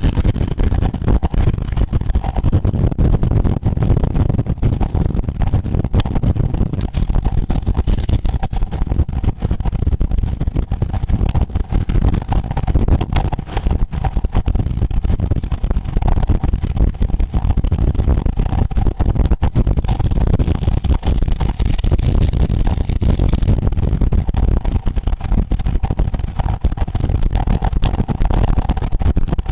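Steady, loud wind rush on the microphone of a camera moving with the race, mixed with road noise. A faint steady tone runs underneath.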